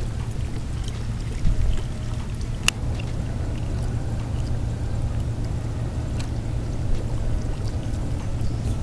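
Steady low rumble of water around a kayak on open water, with one sharp click a little under three seconds in.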